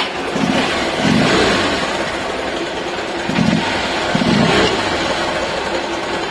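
Hero Ignitor's 125 cc single-cylinder engine running just after starting, blipped four times in two pairs, with the stock air filter box still fitted.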